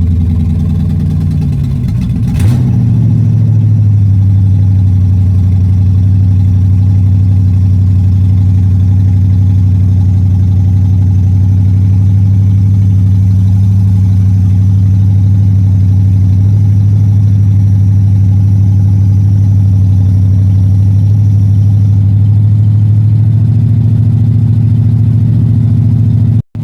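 Pontiac Strato Chief engine idling steadily soon after being coaxed into starting, its speed sagging and picking back up about two seconds in.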